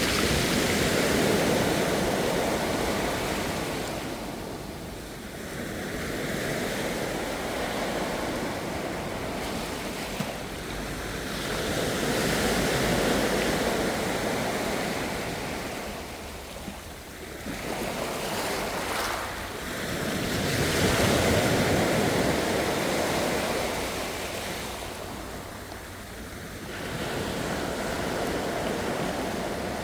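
Ocean waves breaking and washing up the shore, a continuous rushing that swells and fades about every eight to ten seconds.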